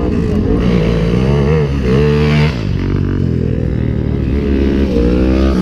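Racing lawn mower engines revving hard as the mowers run the track: the engine note climbs, falls away sharply about halfway through, then climbs again near the end.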